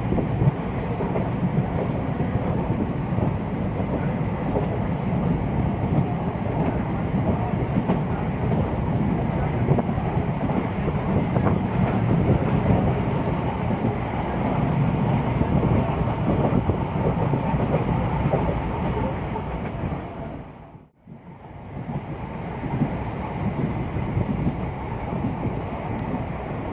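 Steady rumbling noise of a moving vehicle, with wind on the microphone. The sound drops away for about a second near the end, then comes back.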